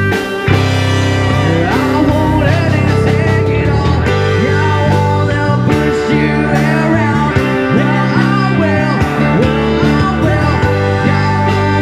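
Live rock band playing electric guitar, bass and drums, with a lead line that bends up and down in pitch over the steady beat.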